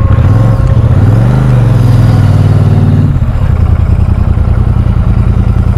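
Royal Enfield Super Meteor 650's 648 cc air-cooled parallel-twin engine running at low speed under the rider. Its pitch rises and falls twice in the first three seconds as the throttle is worked, then holds steady.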